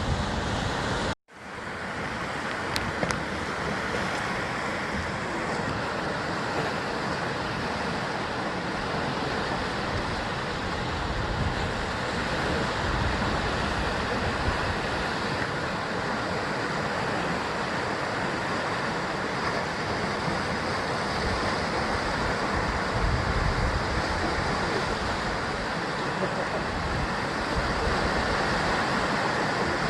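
Sea surf washing against a rocky basalt coast: a steady rush of waves, with low wind rumble on the microphone at times. About a second in, the sound cuts out for an instant and then comes back.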